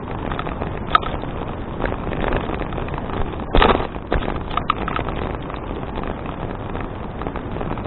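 Wind buffeting an action camera's microphone on a moving bicycle, mixed with tyre noise and rattling from the bike on the path. A single click about a second in, and a short, louder rush about three and a half seconds in.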